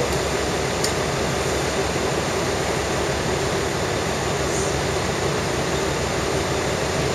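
Steady running noise heard inside a diesel railcar climbing the loop line: the engine drone and the wheels on the rails, with no marked change.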